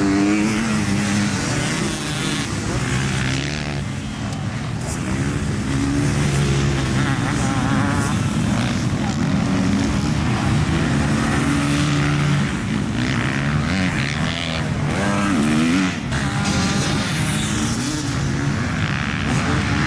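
Motocross bike engine revving hard, its pitch climbing and dropping again and again as the throttle opens and shuts through the gears.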